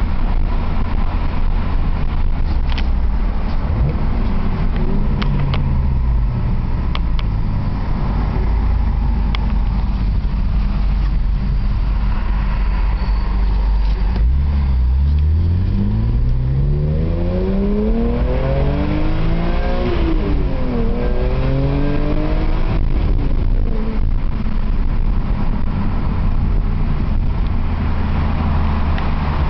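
BMW E46 M3's S54 inline-six running through a UUC RSC exhaust with a Rasp terminator section, on the move. It runs steadily, then about halfway through the engine note climbs for several seconds under acceleration and falls back as it eases off, returning to a steady cruise.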